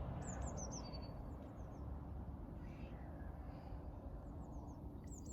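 Songbird singing in the background: clusters of quick high chirps and short falling notes with a brief held whistle, near the start, around the middle and again at the end, over a steady low background rumble.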